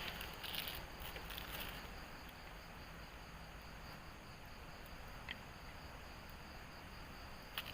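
A steady, high-pitched chorus of insects, faint, with crackling rustle fading out over the first couple of seconds and two short clicks later on.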